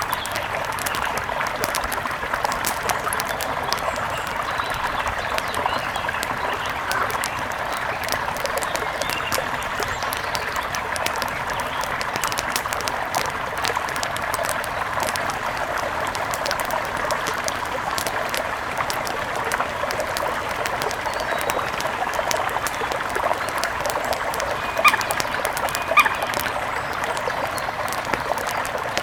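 Steady rush of a river with fine crackling running through it. Birds give two short chirps about a second apart near the end.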